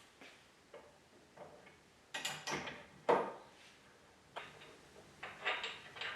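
Irregular wooden knocks and clunks as a heavy wooden end piece is handled and fitted against a workbench top, with a cluster of knocks about two seconds in, the loudest single knock about three seconds in, and several lighter ones near the end.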